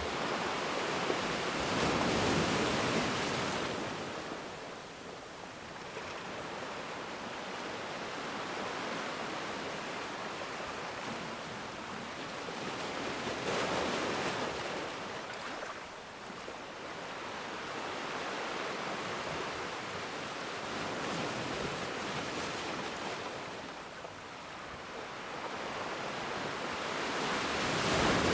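Ocean waves breaking and washing on a shore: a steady rush of surf that swells into a louder crash roughly every ten to fourteen seconds, about two seconds in, near the middle and again at the end.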